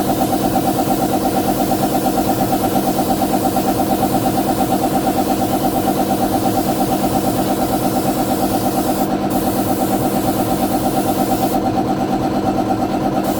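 A motor running steadily with a fast, even pulse of about six beats a second.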